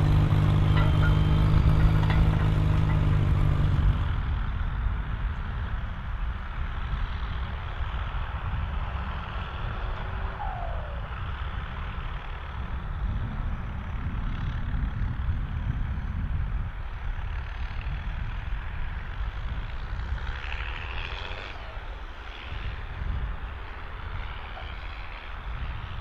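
Volvo BM 2654 tractor's diesel engine running steadily under ploughing load. About four seconds in the sound drops abruptly to a quieter low rumble with a rough, wind-like noise.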